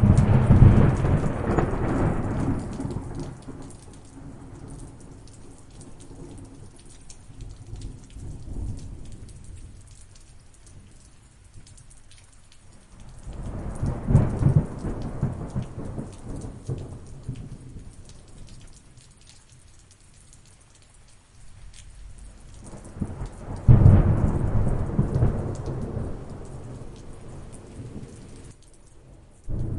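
Thunderstorm: steady rain with four peals of thunder. One peal breaks sharply at the start and fades over a few seconds, a slower rolling rumble swells and dies away in the middle, another sharp peal comes about three quarters through, and a last one comes at the very end.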